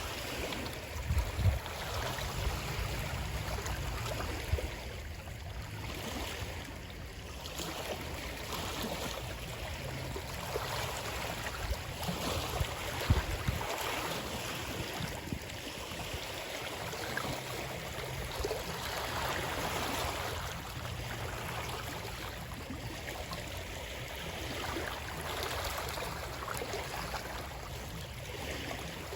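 A stream of water flowing in a steady, unbroken rush, with a few brief low thumps about a second in and again about halfway through.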